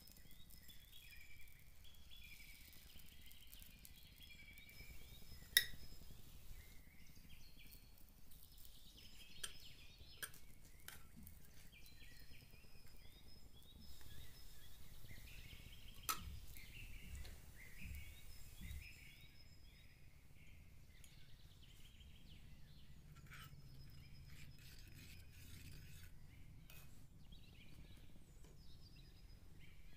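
Small metal spoons clinking and scraping against miniature steel bowls and a tiny pan, in scattered light clinks, with two sharper taps about five and sixteen seconds in.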